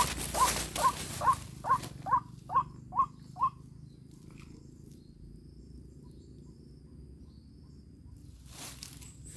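White-breasted waterhen (ruak-ruak) calling: a hoarse note with an upward hook, repeated about twice a second, stopping suddenly about three and a half seconds in. A rustling starts near the end.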